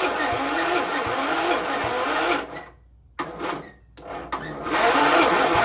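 Kohler Magnum 14 single-cylinder engine running on brake cleaner, its speed wavering. About two and a half seconds in it dies away, coughs back twice briefly, then catches and runs again near the end.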